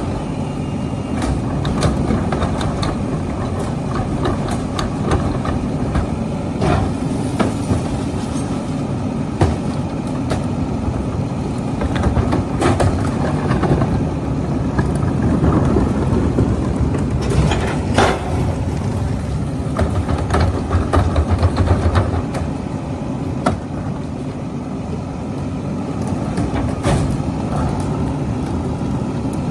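Garbage truck's diesel engine running steadily, with scattered clanks and knocks over it and a heavier pulsing stretch about two-thirds of the way through.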